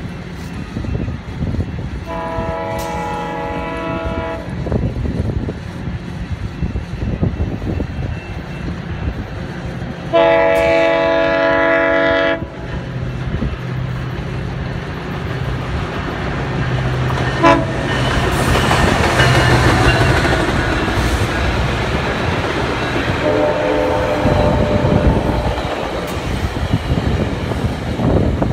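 GO Transit commuter train's diesel locomotive sounding its multi-tone air horn in three long blasts, the loudest in the middle, as it approaches at speed. The engine drone rises, then the train passes with a rushing rumble of wheels on rail.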